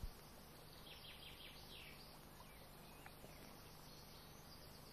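Near silence: faint outdoor background with a few soft bird chirps, about one to two seconds in and once more near the three-second mark.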